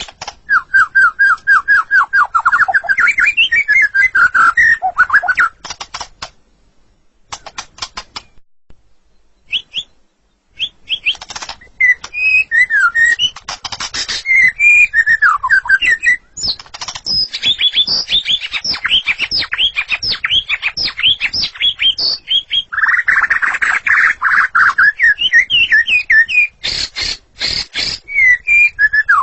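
White-rumped shama (murai batu) singing: fast runs of repeated whistled notes and varied warbled phrases. It breaks off for a few seconds in the first third and is joined by bursts of dry clicks near the end.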